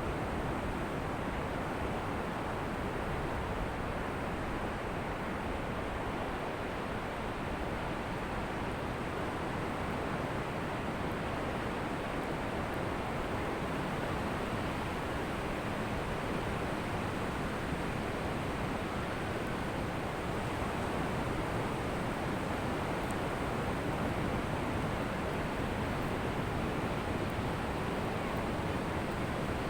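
Ocean surf washing onto a beach in a steady, even rush with no single wave breaking out above the rest.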